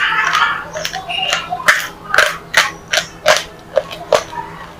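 Close-miked crunching of cement-like black clay being bitten and chewed: a rough, noisy crunch at first, then a run of sharp cracks about two a second.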